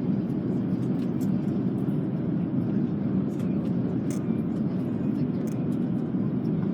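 Steady low rumble of an Airbus A330-300 cabin, engine and airflow noise, with a few faint ticks.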